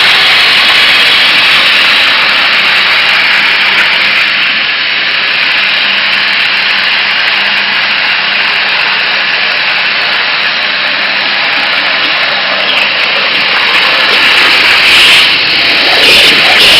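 CNC waterjet cutter's high-pressure water jet cutting stainless steel sheet: a loud, steady hiss with a faint low hum under it, growing rougher and louder near the end.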